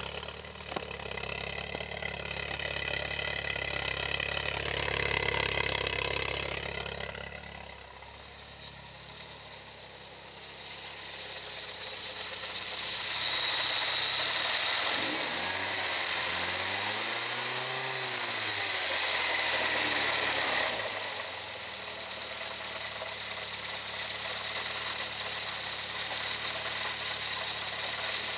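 Toyota 18R-GEU twin-cam fuel-injected four-cylinder engine running, blipped up twice: briefly about four seconds in, then a longer rev in the middle where the pitch rises and falls back before settling to idle.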